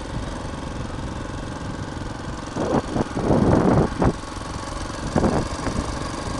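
An engine running steadily, with several louder noisy surges a few seconds in.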